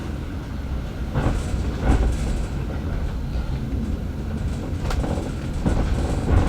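Heritage steam-hauled railway carriage running along the line: a steady low rumble of wheels on rails, with a few sharp knocks and clunks, the loudest about two seconds in and just before the end.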